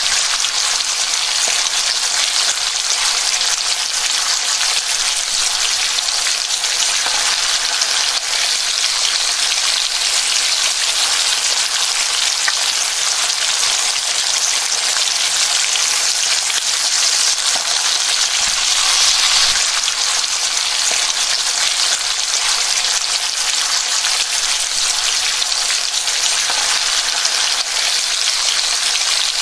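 Minced meat and sliced onions sizzling steadily in hot oil in a nonstick frying pan, stirred now and then with a wooden spatula.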